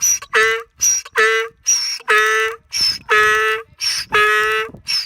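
Donkey braying: a long run of hee-haw calls, short high notes alternating with longer steady-pitched ones, the later calls drawn out longer.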